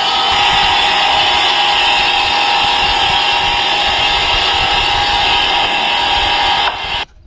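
Workshop machinery running steadily with a hissing, grinding noise and a faint hum, cutting off suddenly near the end.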